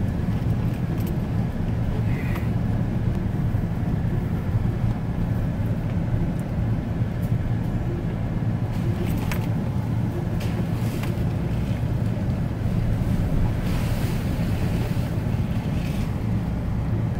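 Pickup truck driving over a rough dirt road: a steady low engine and road rumble, with a few short knocks and rattles from the bumps.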